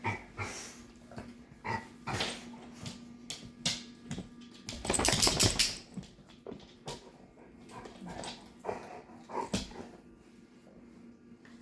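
A dog making short, scattered vocal sounds amid small knocks and rustles. The loudest is a harsh, noisy sound about five seconds in that lasts about a second.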